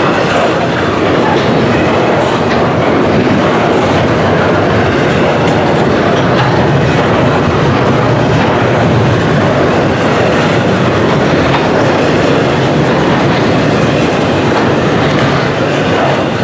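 Norfolk Southern double-stack intermodal freight train passing close by at speed: a loud, steady rush of steel wheels on rail as the container well cars roll past.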